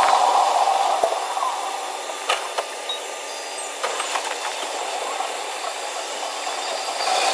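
Train running at speed: a steady rushing hiss with a few sharp clicks.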